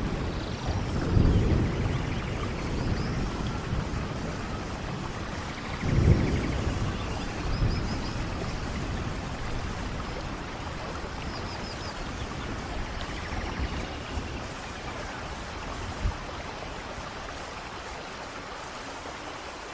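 Steady rain in a rainforest thunderstorm, with low rolls of thunder about a second in and again around six seconds, the rain easing toward the end. Faint high chirps sound over the rain now and then.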